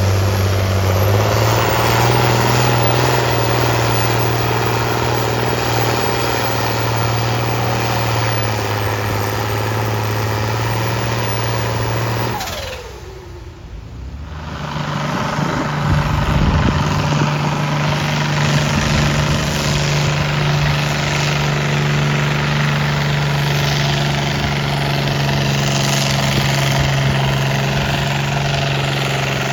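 Tractor engine running steadily at a tractor pull, its note stepping up about a second in. Near the middle the sound briefly drops away, then a steady engine note returns, a little higher than before.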